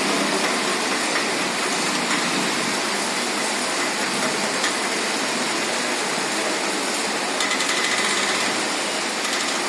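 Steady rainfall, a loud, even hiss with no change in its course.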